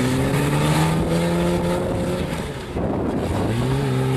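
Car engine under throttle, its pitch climbing slowly for about two seconds, then dropping out briefly before it picks up and climbs again near the end.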